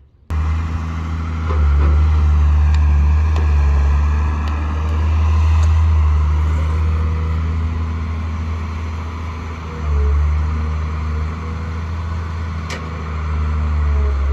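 Heavy diesel machine engine running with a deep, steady hum that rises and falls in loudness several times. A few sharp knocks stand out, the clearest near the end.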